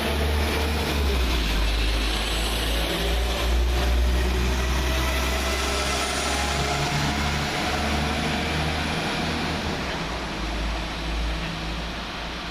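Class 172 Turbostar diesel multiple unit departing, its underfloor diesel engines running with a steady low rumble that eases a little near the end.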